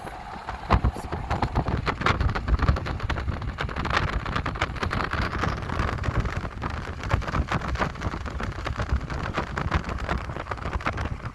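Train passing with a steady low rumble and a dense, rapid clatter of clicks and knocks from its wheels on the rails.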